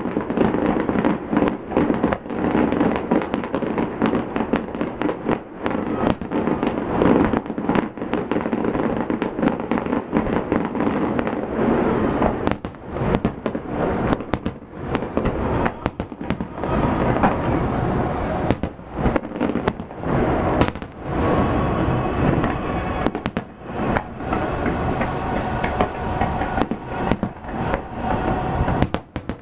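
Fireworks going off in a dense, continuous barrage: many overlapping sharp bangs and crackles with no real pause.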